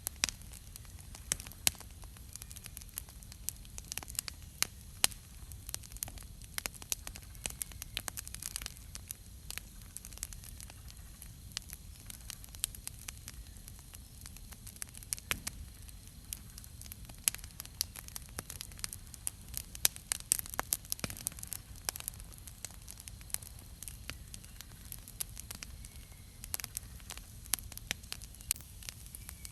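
Wood campfire burning, with many irregular sharp crackles and pops over a low steady rumble.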